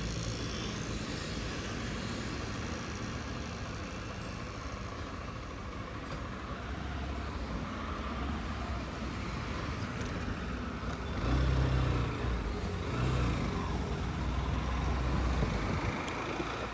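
Honda SP 160 motorcycle running on the road under the rider, with road and wind noise. The engine grows heavier about halfway through and is loudest near the end.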